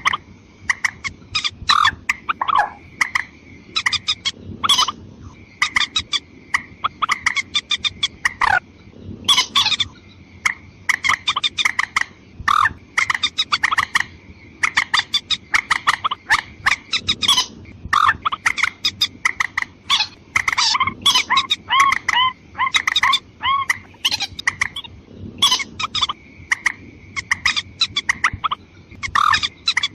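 Watercock lure recording: male and female calls in rapid series of short, sharp notes, several a second, over a thin steady high tone that comes and goes.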